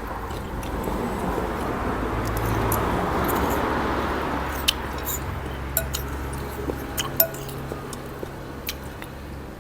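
Spoon and chopsticks clinking against a bowl of noodle soup in sharp, scattered clicks. Under them a rushing noise swells over the first few seconds and fades again by the middle.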